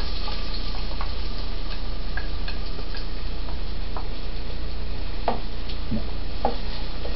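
Chopped garlic and onion sizzling in hot oil in a pan, with a utensil stirring and clicking against the pan now and then.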